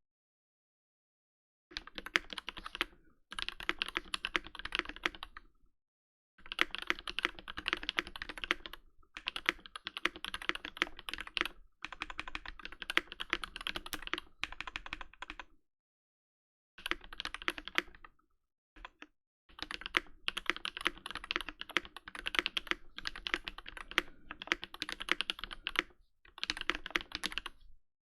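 Sound test of a rebuilt Space65 Cybervoyager custom mechanical keyboard with Giant V5 switches, an FR4 plate and GMK keycaps: fast typing in several bursts of keystrokes, separated by short pauses, starting about a second and a half in.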